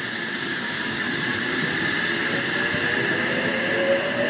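Sydney Trains H-set (OSCAR) electric train pulling away from the platform, its traction motor whine rising slowly in pitch as it accelerates, growing gradually louder.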